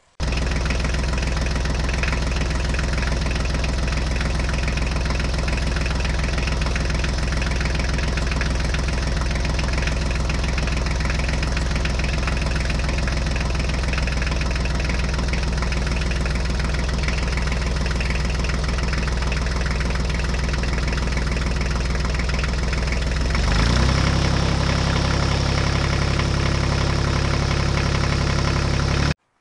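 Recorded diesel tractor engine running steadily, starting and cutting off abruptly. About 23 seconds in, its note shifts lower and gets slightly louder.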